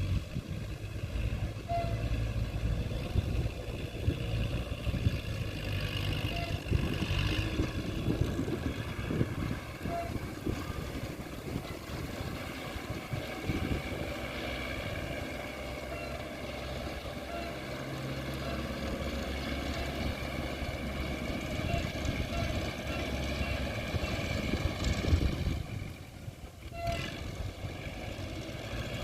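Tractor engine running steadily, with a brief dip in level near the end.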